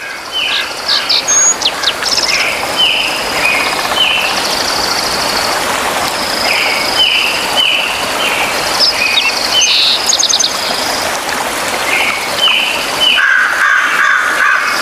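Several birds calling over a steady background hiss: many short, repeated chirping notes and high trills, with a lower, rapidly pulsing call near the end.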